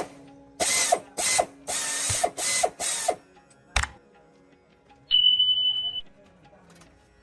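Ratchet wrench worked in five quick strokes, then a sharp click. A little past five seconds in, a single steady high-pitched beep sounds for about a second.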